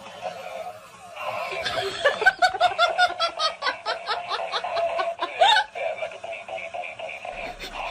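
High-pitched laughter, a quick run of evenly spaced "ha-ha" pulses about five a second, lasting some three seconds from about two seconds in.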